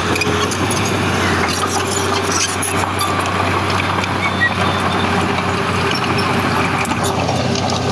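Diesel engine of heavy earthmoving machinery running steadily under load, with scattered light clanks and rattles.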